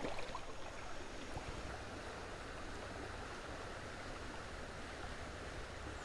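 Steady rush of a fast-flowing creek's current.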